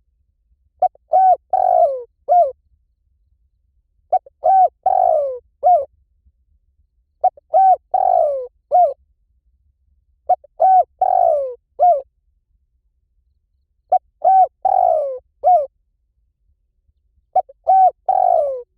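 Spotted dove cooing. It repeats one phrase about every three seconds: two short coos, a longer falling coo, then a short final coo.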